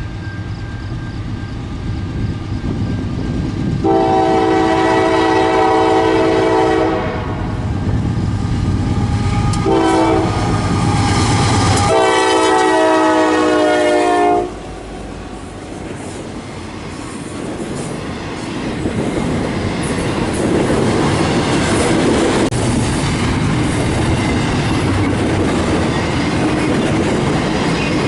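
A diesel locomotive's multi-chime air horn blows three blasts: a long one about four seconds in, a short one, then a long one ending about fourteen seconds in. The train then rolls past with a steady rumble and wheels clicking over the rail joints.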